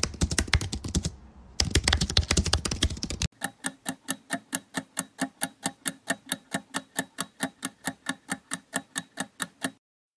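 Keyboard-typing sound effect, a fast run of key clicks with one short pause, lasting about three seconds. Then a countdown-timer ticking takes over, evenly spaced ticks about four a second, stopping shortly before the end.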